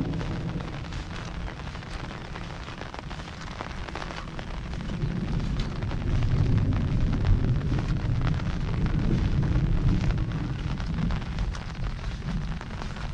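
Heavy rain falling steadily, with a low rumble underneath that swells from about halfway through and eases near the end.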